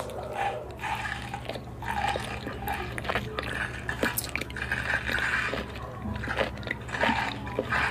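Close-miked wet chewing, slurping and smacking of someone eating raw seafood, with scattered small clicks; the seafood is tough to chew.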